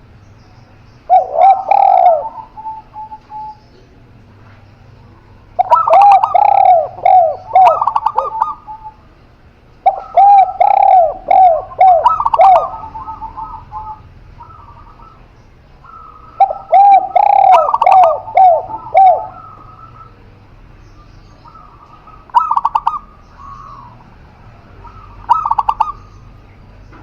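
Doves cooing in repeated phrases of quick, arching notes, four long phrases a few seconds apart, then shorter, quieter ones near the end.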